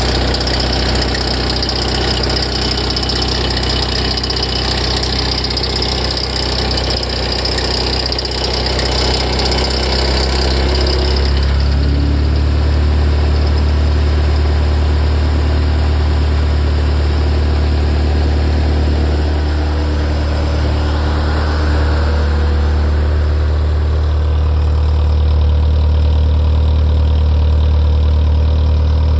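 Ferrari F355 V8 idling with an abnormal high-pitched noise from the front of the engine, which stops about eleven seconds in. After that only the engine's steady, even idle is left.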